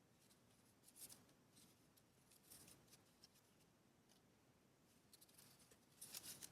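Faint scissors cutting paper: a few scattered snips and rustles, then a quick run of snips near the end.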